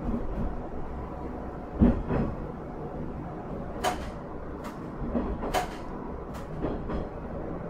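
Cabin running noise of a Minamiaso Railway MT-4000 diesel railcar: a steady low rumble with a heavy knock about two seconds in, then sharp clicks roughly every second.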